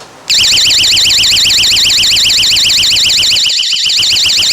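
Small battery-powered electronic alarm in a plastic box going off: a very loud, high electronic tone that warbles rapidly up and down, switching on about a third of a second in and sounding steadily without a break.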